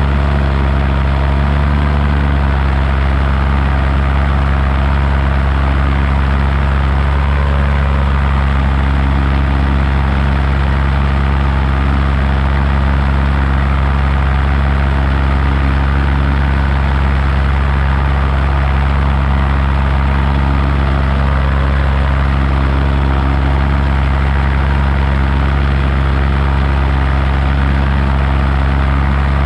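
Paramotor engine and propeller running steadily in flight, one constant low engine note at unchanging power.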